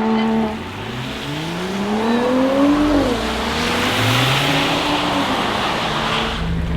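A performance car accelerating hard. The engine note climbs, drops briefly about three seconds in at an upshift, then climbs again, with a rising hiss of tyres on the wet road as it goes by.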